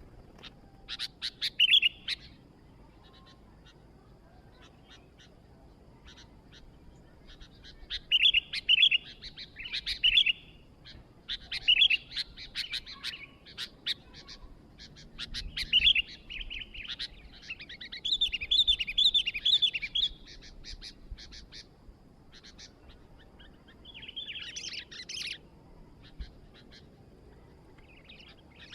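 Sooty-headed bulbul (kutilang) singing: short bursts of quick, warbling chirps, repeated in phrases about a second in, around 8 to 13 seconds, 15 to 20 seconds and near 24 seconds, with quiet gaps between.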